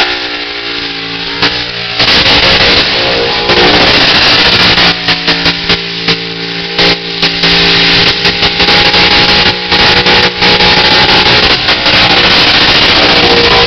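Burnout car's engine held at high revs while its rear tyres spin and smoke on the asphalt. It jumps up about two seconds in and stays loud enough to overload the recording, with a few brief dips.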